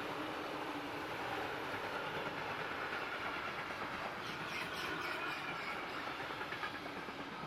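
Train passing on the line, its wheels rolling steadily over the rails, with a faint high squeal about halfway through.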